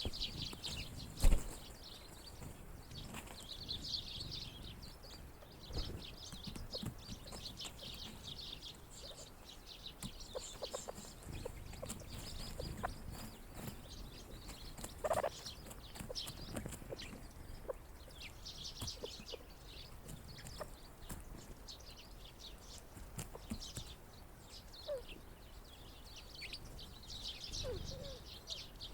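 Small winter songbirds chirping and twittering almost without pause, with lower calls from grey partridges now and then, the clearest about halfway through. A single sharp thump sounds about a second in.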